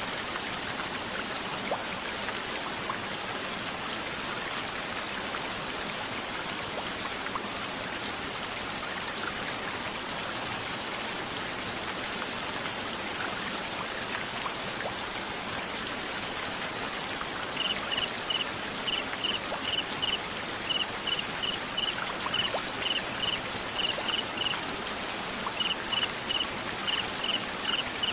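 Steady hiss of rain falling. About two-thirds of the way in, a cricket starts chirping: short, high, even-pitched pulses in quick little groups, repeating steadily.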